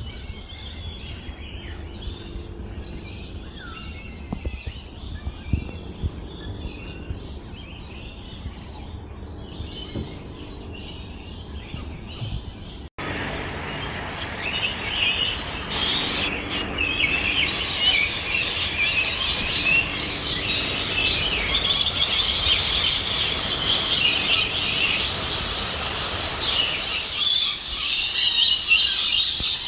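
Birds chirping and calling, many short chirps at once. About halfway through the sound cuts out for an instant and gives way to a louder, denser chorus of chattering bird calls.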